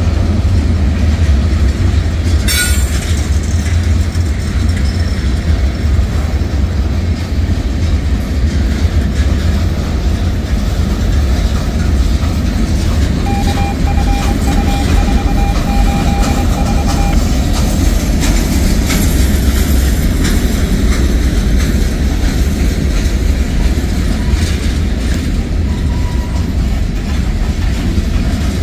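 Freight cars of a passing manifest train (covered hoppers, tank cars and boxcars) rolling steadily by, making a continuous low rumble of wheels on rail. There is a single sharp knock about two and a half seconds in, and a faint thin tone for a few seconds around the middle.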